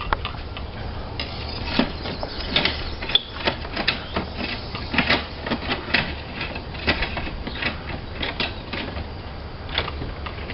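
Hard slates and roofing tools clicking and knocking together in an irregular run of sharp taps, at times several a second, over a steady low rumble.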